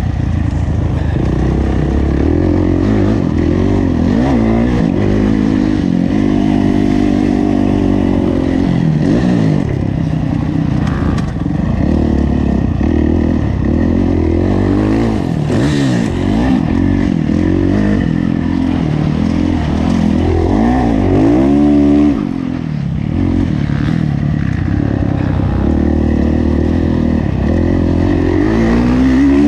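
Kawasaki KX450F motocross bike's four-stroke single-cylinder engine revving up and down under hard throttle on a race lap, its pitch rising and falling with each shift and throttle change, briefly dropping off about two-thirds through.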